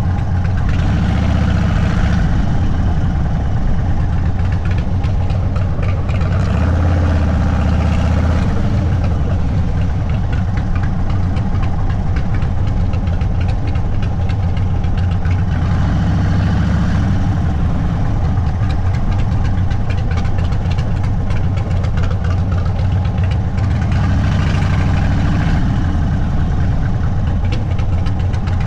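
Indian Sport Chief's Thunderstroke 116 V-twin running through a Sawicki Speed aftermarket exhaust while riding at low speed, a deep, loud, lumpy exhaust note that swells with the throttle about four times.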